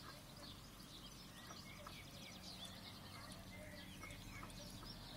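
Faint birdsong: many short chirps and twittering calls, over a low steady hum.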